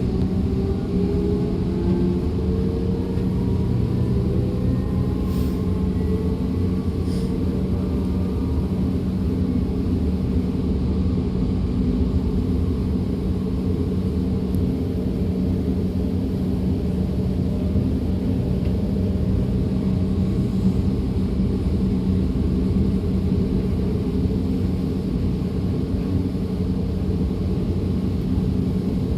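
DB class 425 electric multiple unit running, heard from on board: a steady rumble of the wheels on the rails under a constant hum. For about the first eight seconds the whine of its electric traction drive rises in pitch as the train gathers speed, then fades into the running noise.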